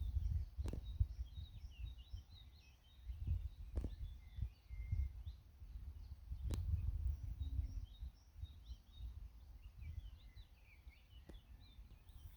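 Small birds chirping and twittering in many short, high calls over a low, uneven rumble of wind on the microphone, with a few sharp clicks.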